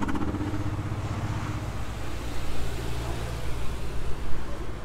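Steady low rumble of a motor vehicle running nearby.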